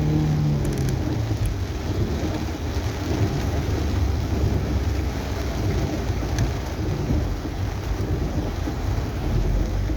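Heavy rain drumming steadily on a car's roof, heard from inside the cabin, over a deep, steady road rumble.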